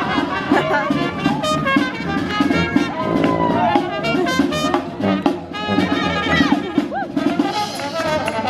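Jazz-style brass music: trumpets and other horns playing over drums, New Orleans style.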